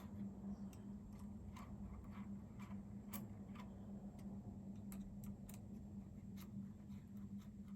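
Light, irregular clicks from tools and small bolts as the bolts are tightened at the steering wheel hub. A steady low hum runs underneath.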